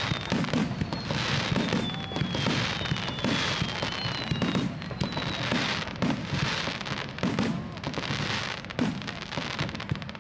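Fireworks display in a continuous barrage: shell bursts and crackles follow one another several times a second with no break. A thin falling whistle sounds over them several times.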